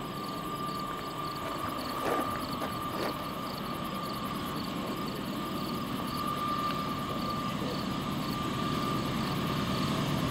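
Distant Canadian Pacific freight train approaching: a low rumble that grows slowly louder. A steady high whine runs over it, with a faint, regular high chirping. There are two light knocks about two and three seconds in.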